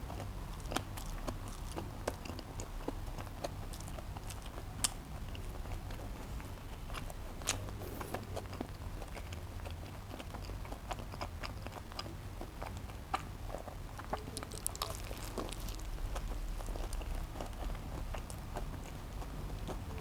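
Close-miked chewing and biting of a cheeseburger: irregular wet mouth clicks and soft crunches over a steady low hum.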